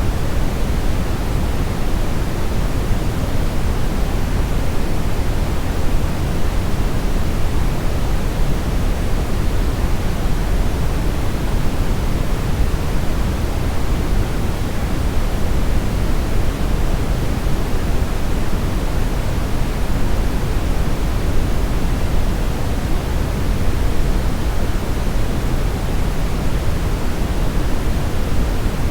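Steady brown noise: an even, unchanging rushing hiss weighted toward deep bass, with no pattern or events.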